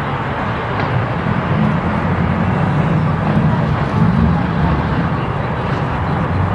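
A car engine running: a low, wavering rumble under steady outdoor noise.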